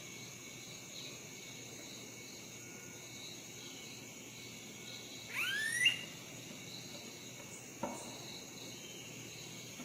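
Steady chirping of a cricket or insect chorus. About five seconds in, a louder whistled call sweeps upward. A short knock follows near eight seconds.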